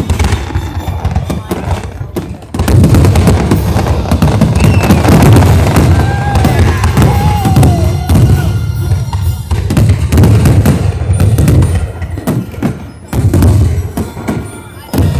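Fireworks going off in quick succession, a dense run of bangs and crackles over deep booms, heaviest through the middle of the stretch, with music playing at the same time.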